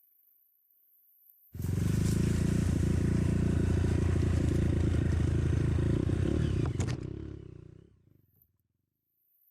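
Trail motorcycle engine running loud and steady, cutting in suddenly about a second and a half in and dying away about six seconds later.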